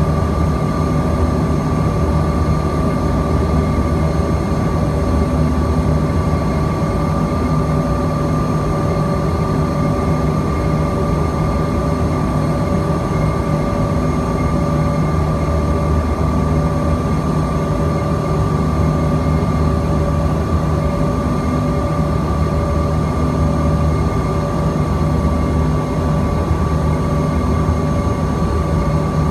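Steady cabin noise inside a Bombardier CRJ-200 in flight: the rush of its rear-mounted GE CF34 turbofans and airflow, with a constant whine and a low hum under it.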